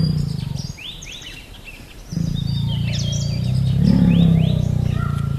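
Meerkats calling: a run of short, high, rising chirps over a loud, low, buzzing call. The low call breaks off about a second in and starts again about two seconds in.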